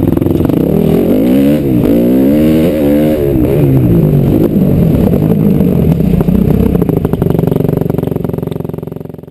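KTM SX-F 250 four-stroke single-cylinder motocross engine revving, its pitch rising and falling several times with the throttle, then running steadier before fading out near the end.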